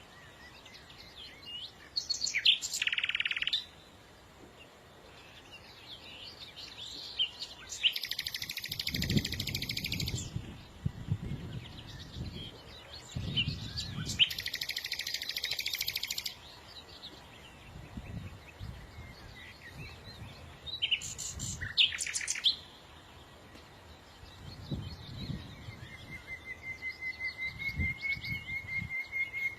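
Small songbirds chirping and singing in short separate bursts, some harsh and rasping. Near the end a steady, evenly pulsing high note sets in and runs on.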